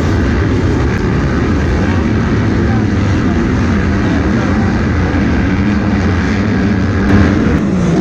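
Several motocross bikes racing on a dirt track, their engines running hard together in a dense, loud, wavering drone as riders work the throttle.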